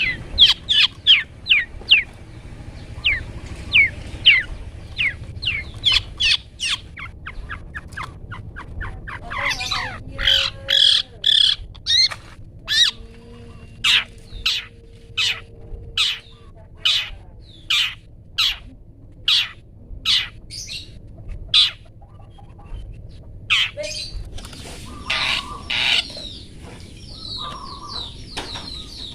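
Caged songbird calling over and over in short sharp notes: quick falling chips several a second at first, then louder separate notes about one or two a second, broken by harsher chattering bursts, the 'toet toet' type of call used as a master recording for training cendet.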